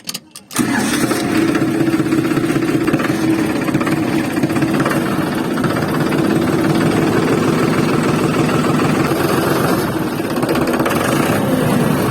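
A motor running steadily with a fast rattling pulse, starting about half a second in after a brief break.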